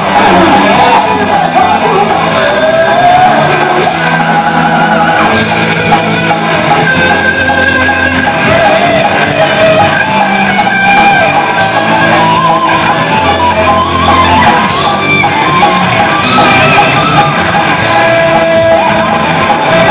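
Heavy metal band playing at full volume: distorted electric guitars over bass and drums, with a high shouted vocal line.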